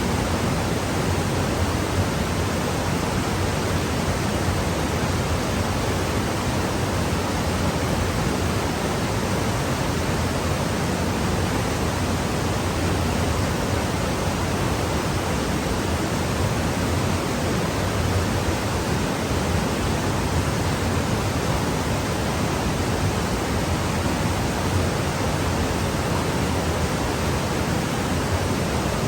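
Steady rushing noise, even from low to high pitch and unchanging throughout, with no distinct events.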